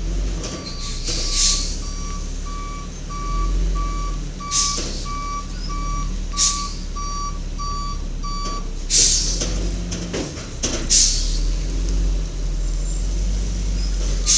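Garbage truck backing up: its reversing alarm beeps steadily, a little under twice a second, over a low engine hum, and stops about nine seconds in. Short hisses of air from the truck's brakes come about five times.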